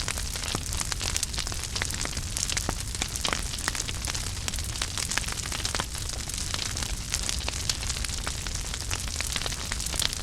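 Wood fire burning in a fireplace: dense, irregular crackling and small pops over a steady hiss and a low rumble.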